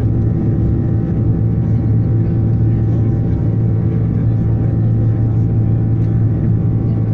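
Airbus A330-300 jet engine at take-off thrust, heard from inside the cabin: a loud, steady drone with a strong low hum.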